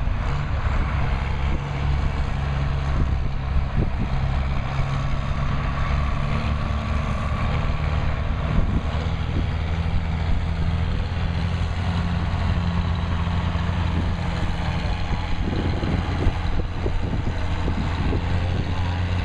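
Farm tractor engine running steadily and loudly, holding an even pitch with no big revving.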